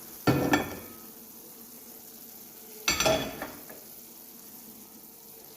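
Chicken sizzling as it fries in a pot of curry. A spoon scrapes and clanks against the pot twice, once just after the start and again about three seconds in.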